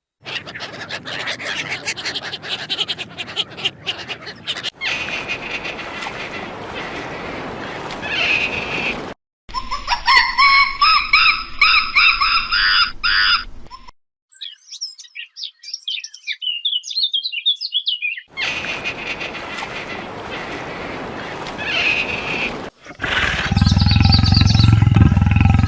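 A run of different animal calls one after another: a rapid clicking chatter, then pitched calls, quick high chirps, more chatter, and a loud, deep roar near the end.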